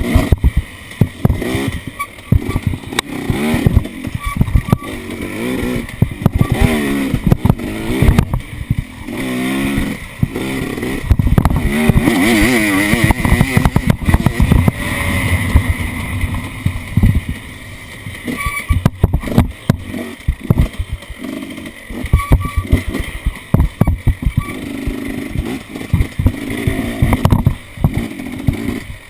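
Off-road vehicle engine revving up and down over and over, with frequent knocks and rattles.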